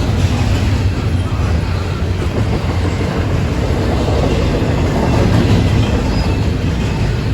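CSX freight train's cars rolling past close by: a steady, loud rumble of steel wheels on the rails with some clickety-clack over the rail joints.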